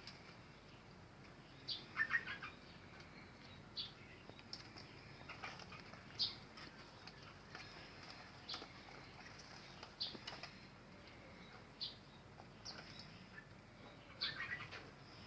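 Small birds chirping: short, high calls scattered about once a second, with a couple of quick flurries of several chirps.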